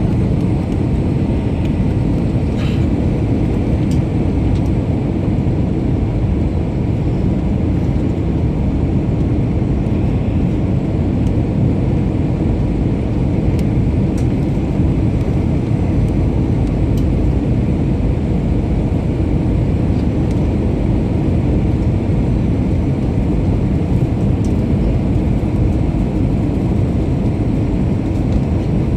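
Steady, deep roar inside the cabin of an Airbus A321-231 in flight: its IAE V2500 jet engines and the rush of air past the fuselage, heard from a window seat, with a faint steady whine above it.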